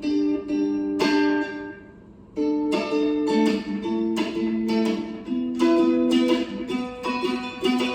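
Homemade electric cigar box guitar played through an amplifier with a delay effect: picked chords and single notes ringing on, with a short pause about two seconds in before the playing resumes.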